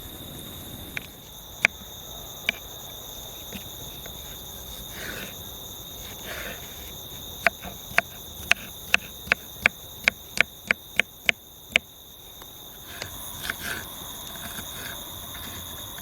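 Steady high chirring of insects, with a run of about a dozen sharp knocks, two or three a second, starting about seven seconds in and stopping about five seconds later. There are a few single knocks earlier.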